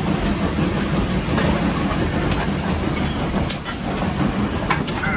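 Nevada Northern No. 81 steam locomotive running, heard from inside its cab: a steady heavy rumble and hiss, with a few sharp metallic clicks in the second half.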